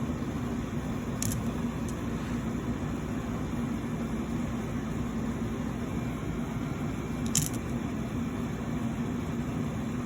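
Steady low machine hum over even background noise, broken by two short sharp clicks, about a second in and about seven seconds in.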